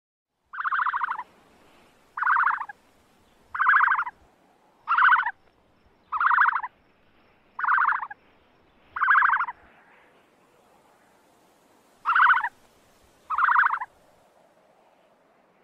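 An animal calling: short, pulsed calls about a second and a half apart, seven in a row, then a pause and two more.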